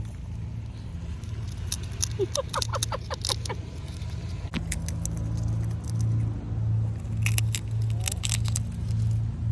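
Squirrel cracking and nibbling nuts: scattered sharp clicks and crackles in two clusters, over a steady low hum.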